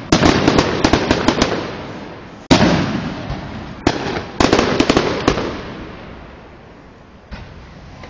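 Fireworks going off close by: loud aerial booms followed by rapid crackling pops, in three clusters over the first five seconds or so, each dying away in a long echoing rumble, then one faint late crack.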